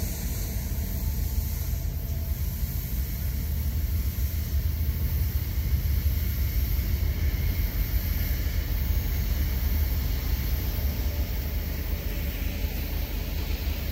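Freight train rolling past: a steady, unbroken low rumble with a wash of noise over it and no clear wheel clicks.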